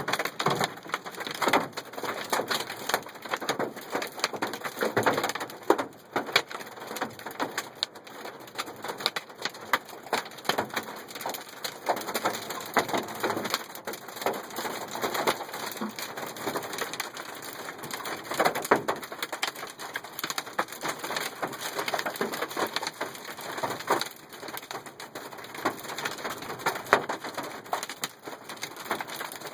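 Hailstones pelting a truck: a dense, irregular clatter of hard impacts over a steady rain-like hiss, with the heaviest hits standing out every second or two.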